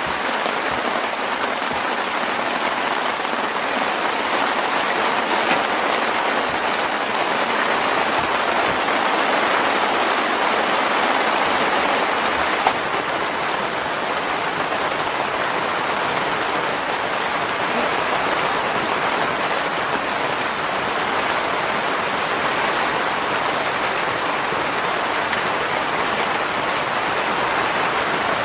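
Steady rain falling in an even hiss, with a single sharp click about halfway through.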